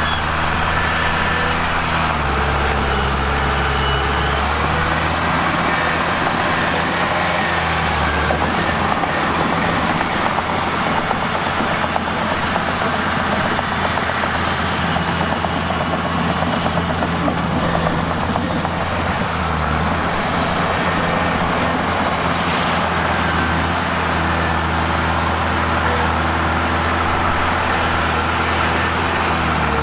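Mitsubishi bulldozer's diesel engine running continuously as it pushes rock, its engine speed shifting up and down a few times.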